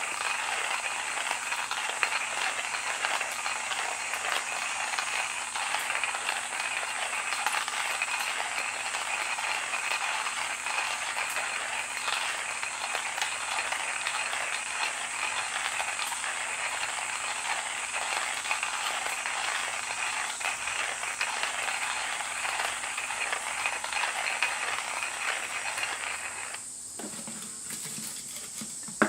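Steady crackling hiss with dense fine pops that cuts off abruptly about 27 seconds in.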